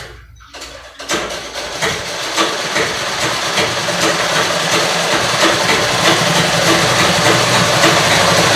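Foot-pedal treadle sewing machine starting up about a second in and stitching, its strokes speeding up over the next few seconds, then running at a steady rapid clatter.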